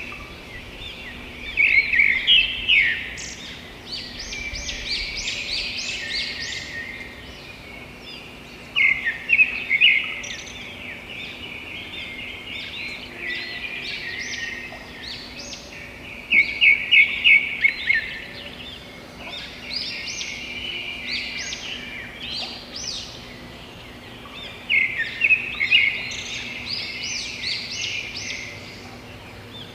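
Wild birds singing and chirping, with a loud song of rapid repeated notes returning about every seven or eight seconds.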